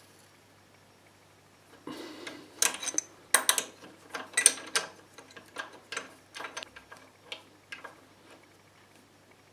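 Small adjustable spanner clicking and clinking against the gland nut of a stopcock as the loose nut is tightened to stop a leak: a busy run of sharp metallic clicks starting about two seconds in, thinning out to single ticks near the end.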